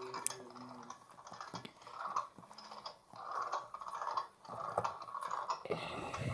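A mini washing machine running its wash cycle, the load churning in uneven swells about once a second, with mechanical clicking and rattling from the machine.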